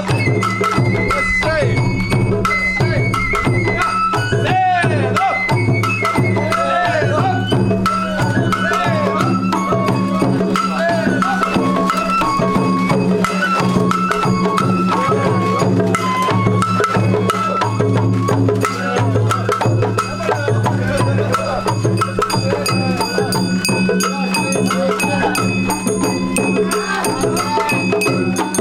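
Sawara-bayashi festival music played live by a hayashi ensemble: a high bamboo flute melody stepping between held notes over continuous taiko drumming.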